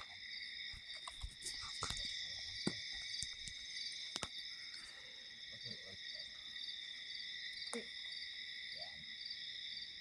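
Night insects, crickets, chirping steadily in several pitch layers, one of them pulsing at an even rate, with a few faint clicks and knocks.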